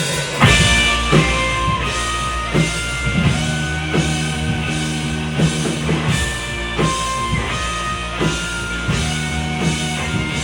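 Live rock band playing: drum kit and electric guitar kick in together at the start of a song, with a steady drum hit about every 0.7 seconds under sustained guitar notes.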